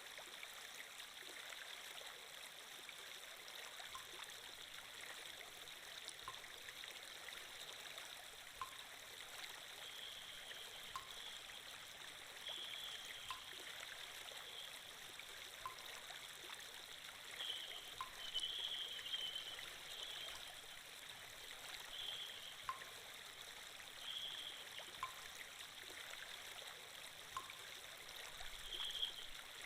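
Flowing-water sound effect: a steady trickling stream, fairly quiet, with small splashy flurries now and then.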